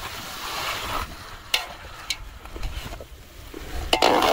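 Chicken and ginger-garlic masala sizzling in a cooking pot, with a few sharp clicks of a ladle against the pot. A louder rush of sizzling comes in near the end.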